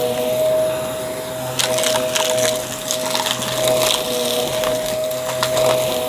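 Aspiron vacuum cleaner running with a steady motor whine while sucking up crunchy debris, which crackles and rattles through the nozzle, more thickly from about a second and a half in.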